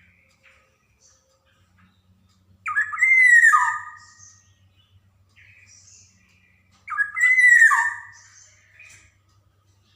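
Black-naped oriole (kepodang) singing: two loud phrases about four seconds apart, each a rich whistled note that slides down in pitch with a harsh, squawky edge, and softer short notes in between.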